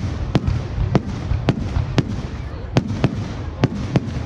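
Fireworks display: a rapid run of sharp bangs, about two a second, over a steady low rumble.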